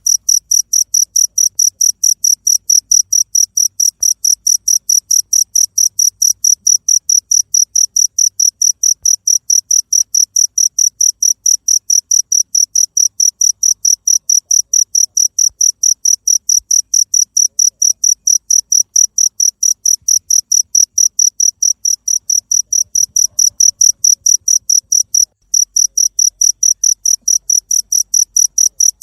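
Cricket chirping: a high-pitched, rapidly repeated chirp at about four to five pulses a second, with a brief break near the end.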